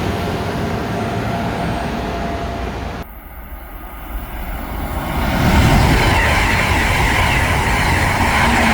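Rail noise from a train, which cuts off abruptly about three seconds in. Then a train comes in, swelling over a couple of seconds to a loud, steady rumble with a rushing hiss.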